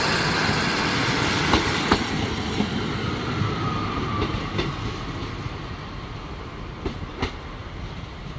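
A train running along the rails, its wheels giving a few sharp clicks over rail joints as the sound gradually fades away.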